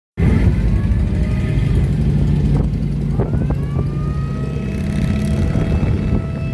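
An old car's engine running with a low, steady rumble, with a faint whine that glides up in pitch and then holds, and a few clicks near the middle.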